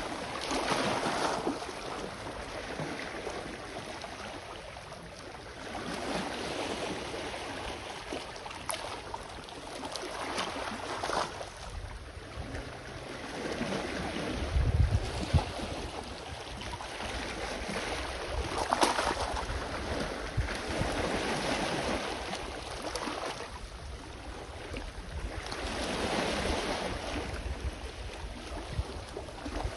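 Sea waves washing onto the shore, swelling and fading every four to five seconds. About halfway through, a gust of wind rumbles on the microphone.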